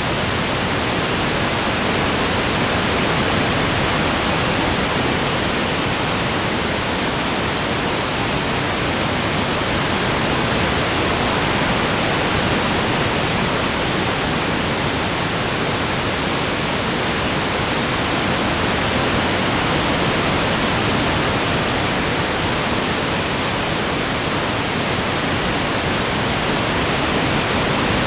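Steady rushing wind sound, sold as mountain wind, even and constant, with no gusts or swells.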